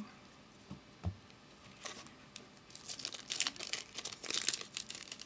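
Foil wrapper of a trading card pack being torn open and crinkled, a dense crackling that starts about halfway through after a couple of soft knocks.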